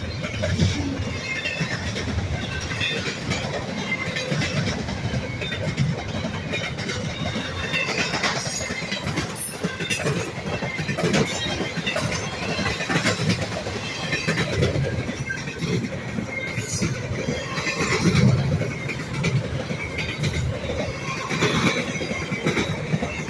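Train cars rolling past on the rails, a steady rumble with wheels clacking over the rail joints at irregular intervals and faint wheel squeal.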